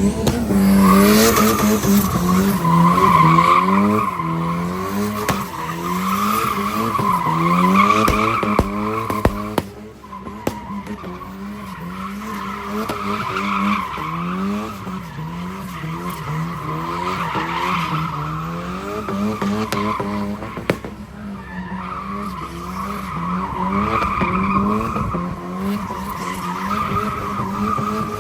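Car tyres squealing as the car spins its wheels, the engine revving up and down over and over.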